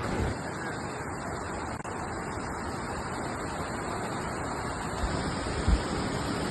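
Wind blowing across the microphone: a steady rushing noise, with low buffeting thumps about five and six seconds in.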